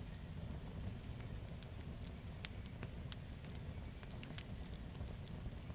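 Campfire crackling: frequent irregular sharp pops and snaps over a steady low rumble of the flames.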